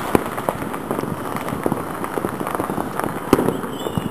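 Many fireworks and firecrackers going off at a distance, a dense crackle of small pops with a few sharper bangs, the loudest a little over three seconds in.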